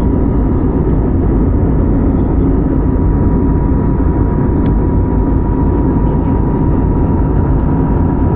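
Airliner cabin noise from a window seat: a steady low rumble of engines and airflow with a faint steady tone above it.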